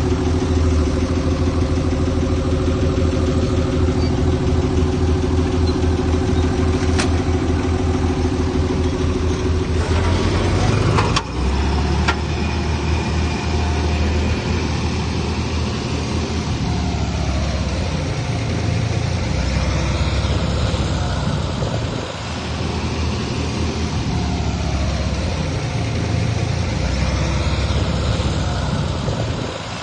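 Heavy diesel engines of earthmoving machinery running steadily. About eleven seconds in there is a sharp knock, after which the engine pitch rises and falls.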